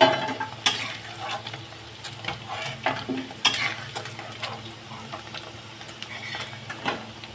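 Paneer and potato cubes sizzling in hot oil in a metal kadhai, with a metal spatula scraping and clinking against the pan now and then as the cubes are stirred and the golden-fried paneer is lifted out.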